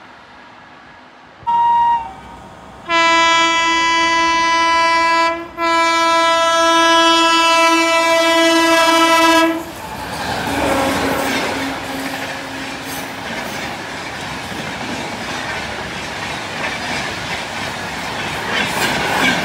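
Train horn sounding a short toot, then a long blast broken once briefly, as a passenger train approaches at speed. It then passes close by with a loud rush and rattling wheel clatter that builds toward the end.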